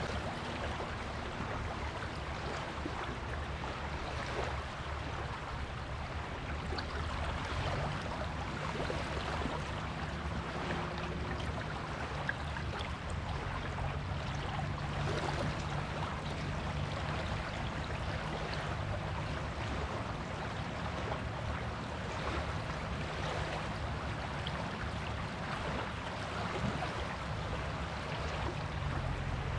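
Waves washing onto a beach: a continuous, even rushing of surf with no breaks. A low steady drone sits underneath at times.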